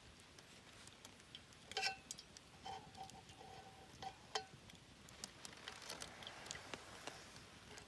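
Scattered light clicks and a few faint metallic clinks, each ringing briefly at one pitch.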